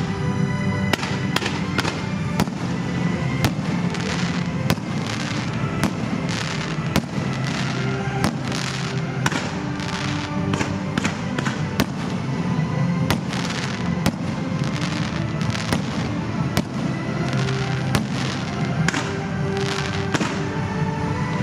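Aerial fireworks bursting in quick, irregular succession, many sharp bangs and crackles, over loud recorded music of a pyromusical show.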